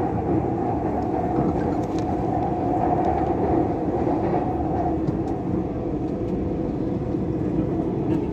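Dubai Metro train running, heard from inside the carriage: a steady rumble and hiss of the moving train, with a hum that fades out about five seconds in.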